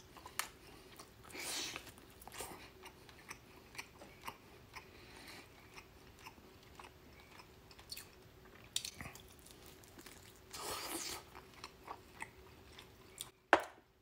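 Close-miked biting and chewing of a barbecued pork rib: moist chewing with many small clicks and smacks. There are louder bites about a second and a half in and again about ten seconds in.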